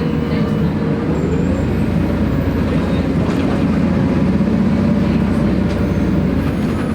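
City bus engine running, with road noise, heard from inside the passenger cabin. The engine note rises briefly about a second in.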